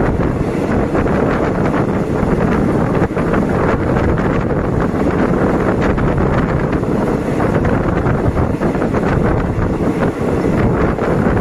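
Steady wind buffeting the microphone at an open window of a moving passenger train, over the train's steady running noise.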